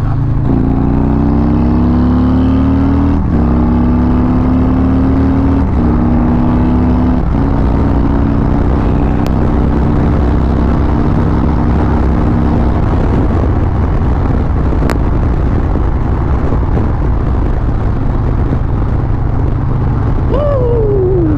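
Harley-Davidson Road Glide Limited's 131 ci V-twin accelerating through the gears: its pitch rises, dips at each upshift (three in quick succession), then gives way to a steady rush at cruising speed.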